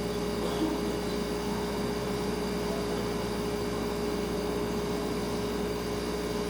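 Refrigerator humming steadily, one constant tone over a soft even hiss of room tone.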